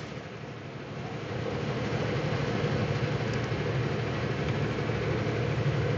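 Cab noise inside a semi truck driving at highway speed: a steady engine drone under road and wind noise, growing a little louder over the first couple of seconds.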